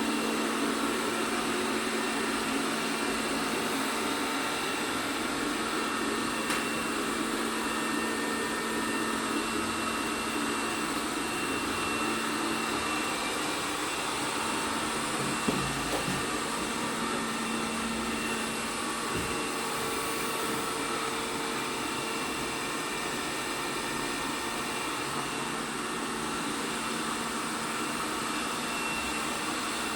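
ELARI SmartBot Lite SBT-002A robot vacuum running, a steady whir of its suction motor and brushes with a faint hum. A single short knock about halfway through.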